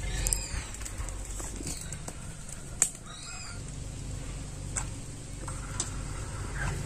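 Small birds chirping briefly against a steady low background, with a few sharp clicks or knocks, the loudest a little under three seconds in.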